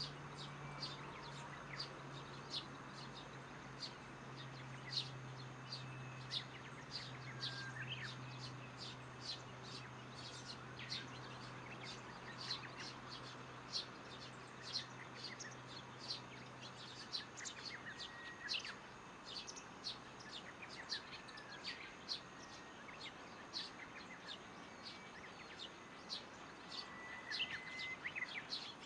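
Birds chirping at dusk: a dense run of short, high chirps all through, with a few brief whistled notes. A faint low hum underneath fades out about two-thirds of the way in.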